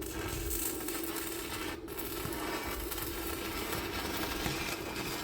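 Electric arc welding on steel: a steady crackling hiss of the arc that strikes up suddenly, breaks off for a moment about two seconds in, and stops suddenly near the end.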